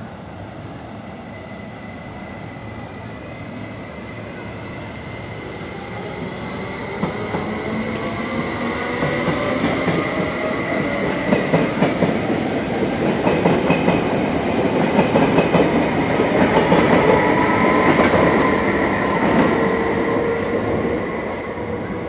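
A train approaching and running past, growing steadily louder to a peak late on and then dropping away at the end. Its wheels clatter rapidly over the rail joints and points, with some squealing from the wheels.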